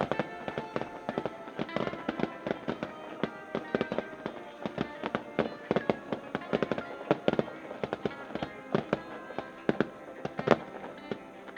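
Fireworks crackling in a rapid, irregular stream of sharp cracks, with steady-toned music underneath.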